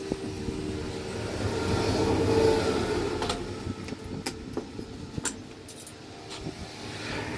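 A motor vehicle passing, its sound swelling and fading over a few seconds, followed by several sharp clicks and knocks.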